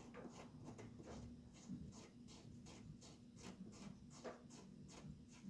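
Near silence with faint, irregular light clicks and ticks of small hand work over a low steady hum.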